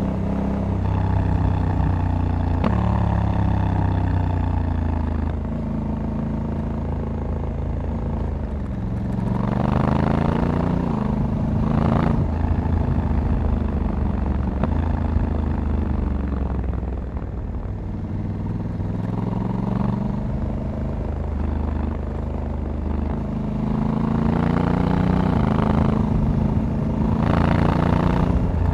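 Honda Africa Twin 1100 DCT's parallel-twin engine under way. The engine note climbs, then drops sharply several times as the dual-clutch gearbox shifts up, and slides down during a slowdown around the middle.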